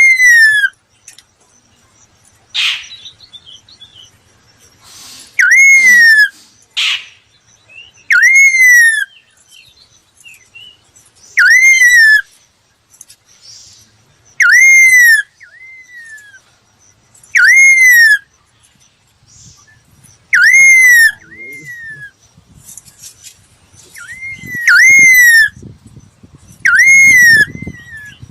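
Laughingthrush (khướu) calling: a clear whistled note that rises briefly and then slurs down, repeated loud and identical about every three seconds, now and then doubled. It is a lure call used to train caged birds.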